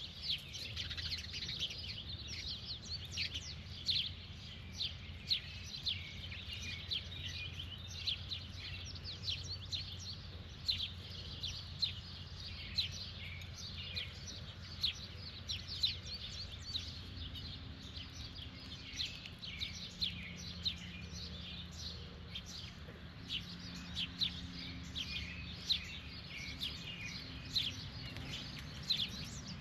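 Many birds chirping continuously, short high chirps several a second, over a low steady background hum.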